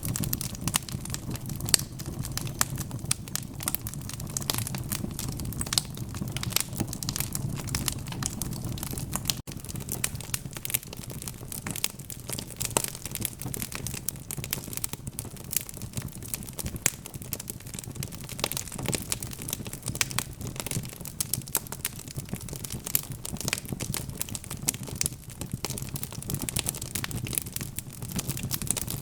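Fire in a fireplace crackling, with dense, irregular pops and snaps over a steady low rumble of burning.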